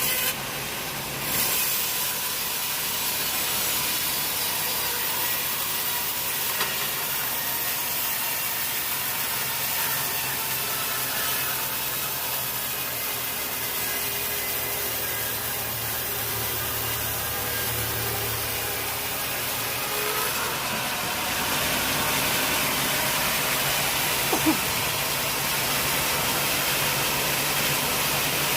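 Sawmill saw cutting through a teak log: a steady machine noise with a continuous high hiss over a low hum, growing a little brighter near the end.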